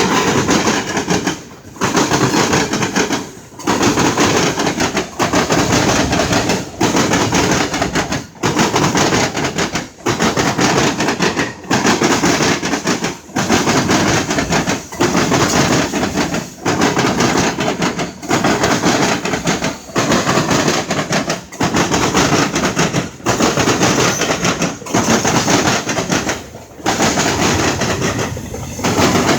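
A long train's cars rolling past close by: loud, steady wheel-and-rail noise that dips briefly about every 1.6 seconds as each car goes by.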